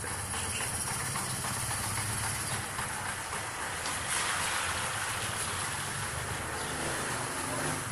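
Kawasaki Rouser 135LS motorcycle's single-cylinder four-stroke engine idling steadily, with a hiss that swells about four seconds in.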